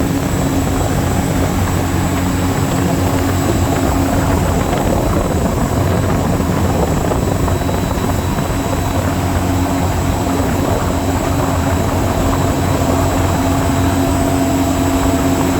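Jet boat's Rotax 1503 4-TEC three-cylinder engine running at a steady speed, a loud, even drone with rushing noise over it.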